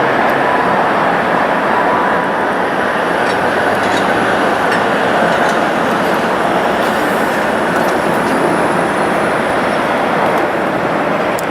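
Jet airliner engines running at a steady loud roar, with a faint high whine in the middle part.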